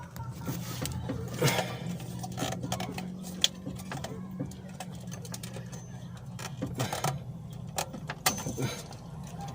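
Car engine being cranked by the starter motor: a steady rhythmic churning that turns the engine over without it catching, a sign of the no-start fault around the newly repaired ECU. Scattered clicks and knocks sit over it.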